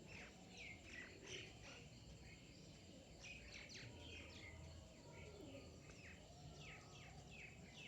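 Several birds chirping: many short, quickly falling high chirps in quick, overlapping succession, heard faintly over low background noise.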